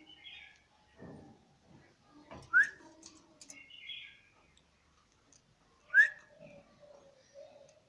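Caged parrot giving two short, loud rising whistles, one about two and a half seconds in and one about six seconds in, with softer chirps between them.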